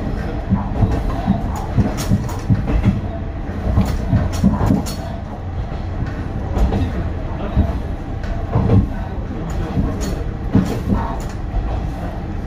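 Isumi Railway Kiha 350 diesel railcar running along single track, heard from on board: the wheels clack irregularly over rail joints over a steady low rumble.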